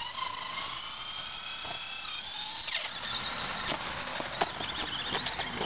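RC truck's small electric motor whining at high pitch as it spins donuts, the whine easing slightly lower and fading about two and a half seconds in, over a steady scrubbing hiss of the tyres sliding.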